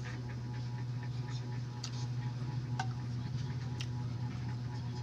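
Sharp ticks about once a second over a steady low hum, with fainter small clicks in between.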